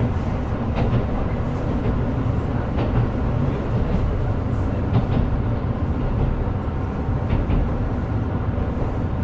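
Running noise of a KiHa 125 diesel railcar heard from inside the cabin: a steady low rumble of engine and wheels on the rails, with a few faint irregular clicks.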